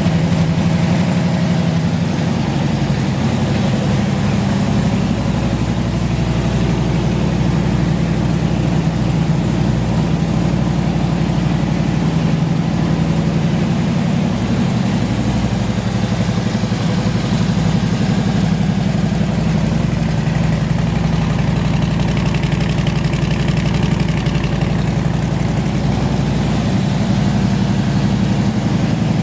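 Harley-Davidson Road King's air-cooled Twin Cam 103 fuel-injected V-twin idling steadily through fishtail exhaust.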